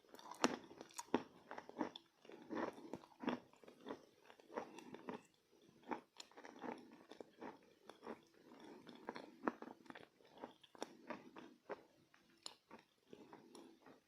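Close-up chewing of pieces of chalk coated in clay paste: irregular sharp crunches and bites mixed with soft, sticky chewing, the clay damping the crunch.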